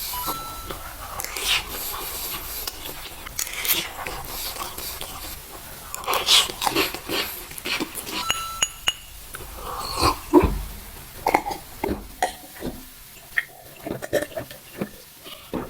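Close-miked eating and food-handling sounds: a run of sharp clicks, taps and crackles, with biting and chewing. They come thicker and louder from about six seconds in.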